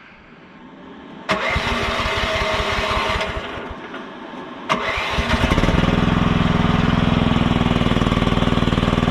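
Compact equipment engine being cranked by its starter about a second in, then cranked again in the middle, catching and settling into a steady idle.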